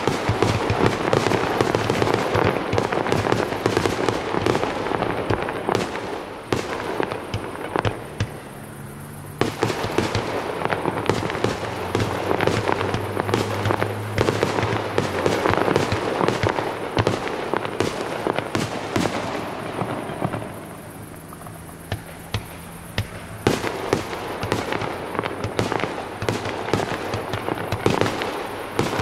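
Fireworks display: a dense, continuous barrage of crackling and sharp bangs, with two brief lulls, about nine seconds in and again around twenty-one seconds in.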